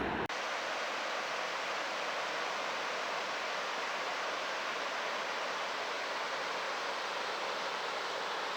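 Waterfall roaring as a steady, even rush of falling water.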